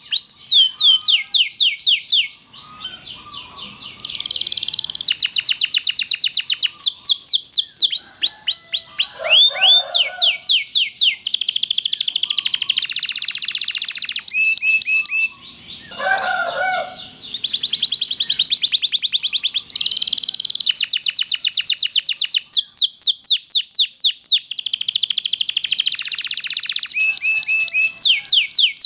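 Domestic canary (Indonesian 'loper' type) singing a long song of rapid rolling trills: fast runs of quickly repeated sweeping notes, with two brief lulls in which softer, lower notes sound.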